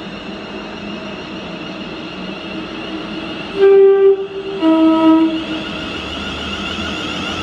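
Train horn sounding two notes, a higher one then a lower one, each about two-thirds of a second long, over the steady running noise of a train at the station.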